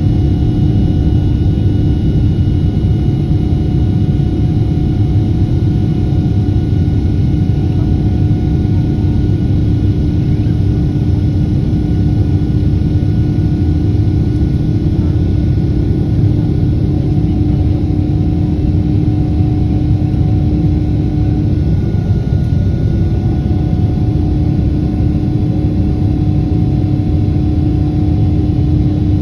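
Boeing 777's GE90-115B turbofan engines running at high thrust: a steady, loud rumble with a constant hum of fixed tones over it, unchanging throughout.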